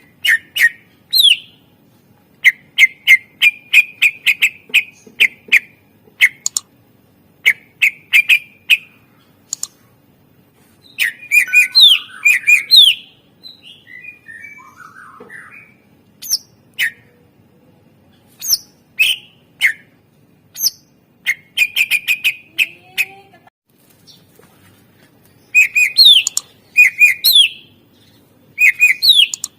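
Cucak ijo (green leafbird) singing a loud, varied song: bursts of sharp chirps, rapid trills and short rising whistled notes, broken by brief pauses.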